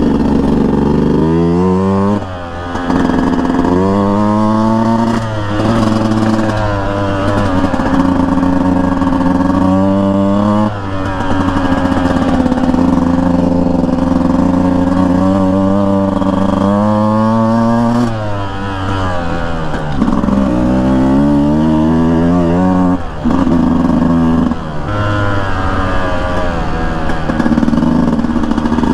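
Beta 200 single-cylinder two-stroke dirt bike engine under way on a trail, revving up and shifting again and again. The pitch climbs in a run of rising sweeps and holds steady between them.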